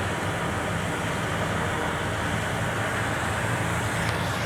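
Boom lift's engine running steadily with a constant low hum.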